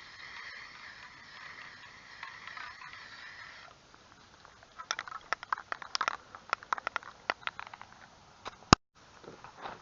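Aerosol primer spraying in a steady hiss that stops abruptly a little over a third of the way in. Then come a run of irregular sharp clicks and taps, and one loud click near the end.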